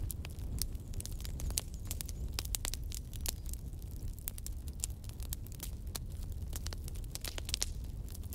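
Wood fire crackling, with irregular sharp pops and snaps over a steady low rumble of flame.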